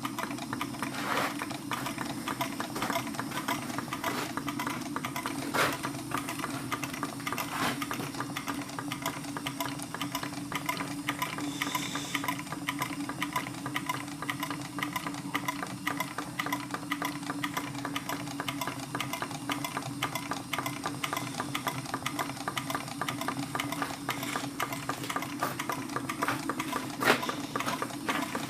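A model Robinson hot air engine running steadily, driving an old treadle sewing machine whose mechanism clatters with rapid, even ticking over a low steady hum. A few louder clicks stand out.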